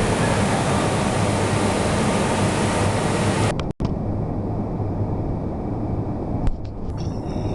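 Large CNC horizontal boring machine running, a steady hum and hiss. The sound cuts out abruptly about three and a half seconds in, then comes back quieter, with a single click near the end.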